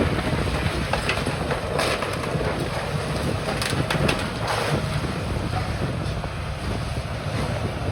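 Demolition excavator running steadily on a building demolition, with a few short crunches or knocks of debris, and wind on the microphone.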